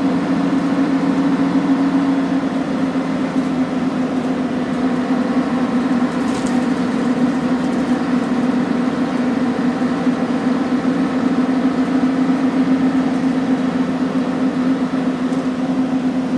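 Scania N113CRB city bus engine running at a steady, unchanging pitch: a loud, constant drone.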